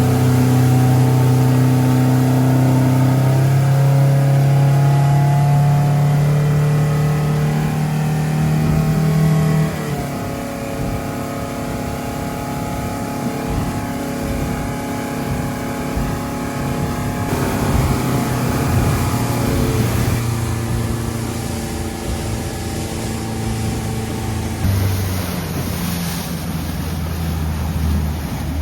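Motorboat engine running steadily under way, with a rushing noise of wind and water. Its pitch shifts a few times, most clearly about ten seconds in.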